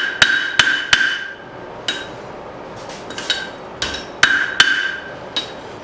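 Hand hammer striking 1/2-inch steel round stock on the back of an anvil to bend it to a right angle: about ten irregular blows, several leaving a short metallic ring.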